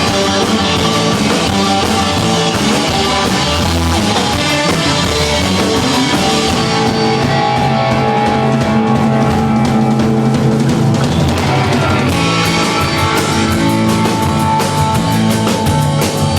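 Rock band playing loud, with a drum kit pounding and electric guitar driving the song; a short falling guitar slide about two thirds of the way through.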